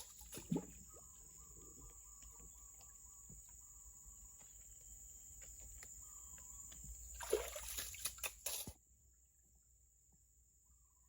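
Water sloshing and splashing, with a few louder splashes between about seven and nine seconds in, over a steady high-pitched whine. The sound drops off suddenly shortly before nine seconds.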